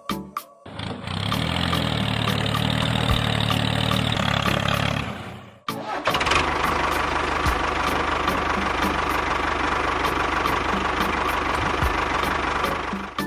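An engine running steadily, cutting out about five and a half seconds in, then starting up again and running on with a higher, noisier whine.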